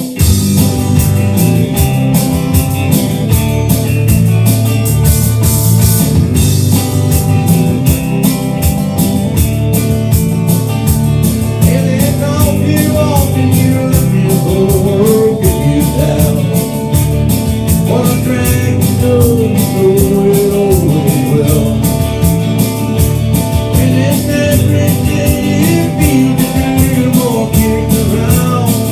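A country-rock band plays a song intro with a drum kit keeping a steady beat, plus bass and guitars. About twelve seconds in, a lead instrument starts a wavering melody over the top.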